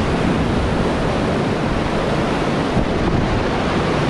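Steady, loud rush of whitewater from a small river rapid around a paddled raft.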